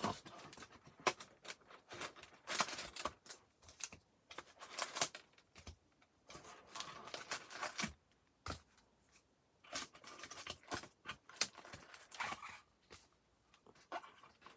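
Irregular rustling and crackling as trading-card packs and packaging are torn open and handled.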